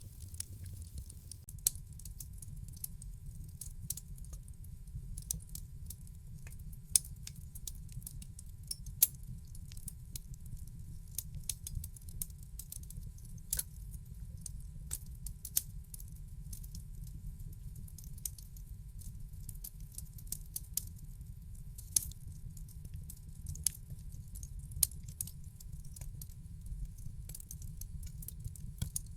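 Wood fire in a fireplace crackling: irregular sharp pops and snaps throughout, a few of them noticeably louder, over a steady low rumble.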